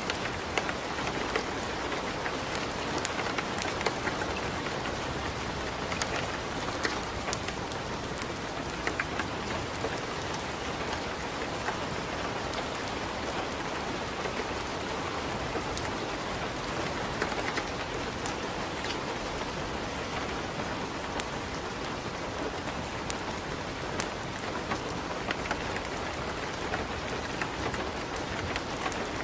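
Steady rain falling, with many scattered sharp crackles and pops from a fireplace fire throughout.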